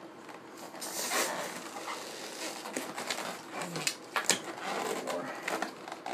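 A yellow 260 latex modelling balloon being inflated about halfway: a rush of air about a second in, then scattered clicks and rubbing of the rubber as it is handled, the sharpest click about four seconds in.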